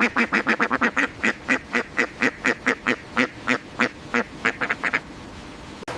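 Duck quacking: a fast run of short, repeated quacks, several a second, which stops about five seconds in.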